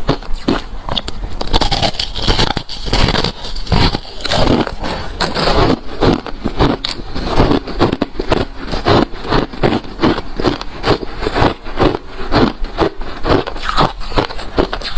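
Close-miked crunching of hard refrozen crushed ice being chewed, a rapid run of sharp cracks and crackles several times a second, with denser grinding stretches between bites.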